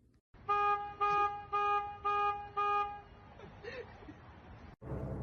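A horn honking five short, even toots in quick succession, about two a second, each on the same steady note.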